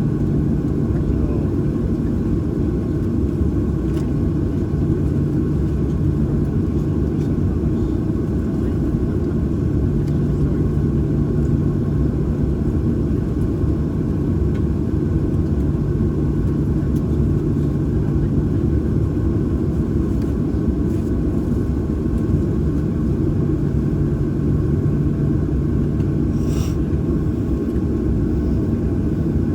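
Steady low cabin rumble of a Boeing 737-800 with its CFM56-7B engines at idle, heard from inside the passenger cabin, with a low hum that fades in and out. A faint click sounds near the end.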